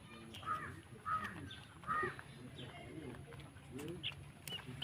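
Desi chickens calling in a flock: short rising-and-falling calls, three louder ones at about half a second, one second and two seconds in, over softer clucking.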